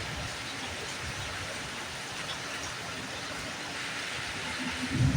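Steady rainfall, an even hiss of drops falling on surfaces. Near the end a brief low rumble rises over it.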